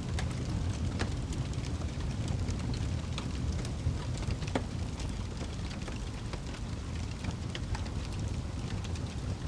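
Wood fire burning in a fireplace: a steady low roar of the flames with frequent small crackles and pops of burning wood.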